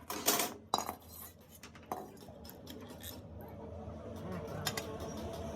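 Small metal parts clinking and knocking against each other as they are handled, with a few sharp clinks in the first two seconds and lighter ticks after.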